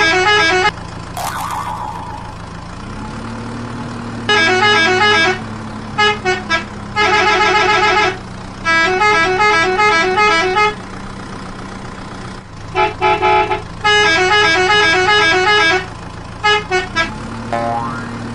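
A musical vehicle horn sounds short, stepping tune phrases in about seven bursts over a steady engine hum. The hum rises in pitch about three seconds in and again near the end, with a brief whoosh about a second in.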